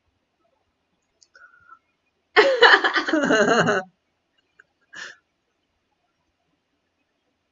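A person's wordless vocal sound lasting about a second and a half and falling in pitch, with a faint short chirp a second before it and a brief high squeak a second after.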